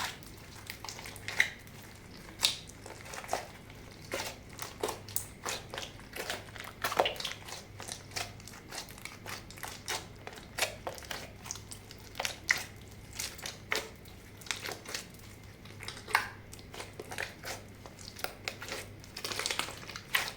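Slime being kneaded and stretched by hand, giving irregular sharp pops and crackles.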